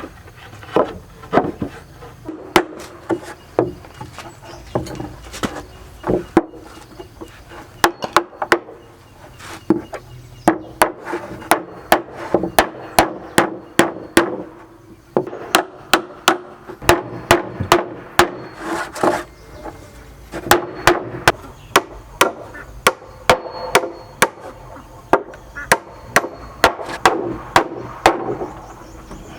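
Hammer blows on wood, struck in quick runs of several blows with short pauses between.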